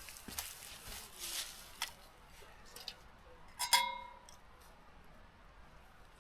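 Camp gear being handled: a few short rustles and scrapes, then one sharp metallic clink about two-thirds of the way in that rings briefly in a few clear tones.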